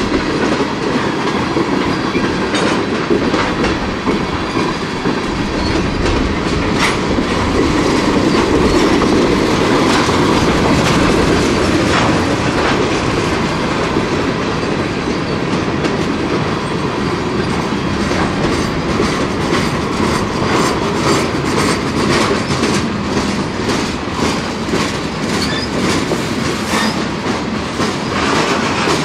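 Freight cars of a CSX intermodal train rolling past, their wheels clicking over the rail joints in a steady clickety-clack, the clicks coming thicker in the second half.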